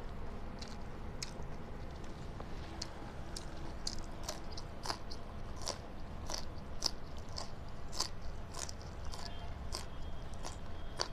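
Close-miked mukbang eating: a person chewing food with a quick run of sharp crunching and smacking clicks, about two a second.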